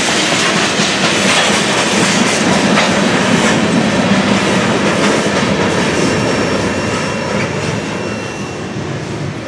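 Covered hopper cars of a freight train rolling past, steel wheels clattering over the rails with a faint high wheel squeal. The sound fades near the end as the last car goes by.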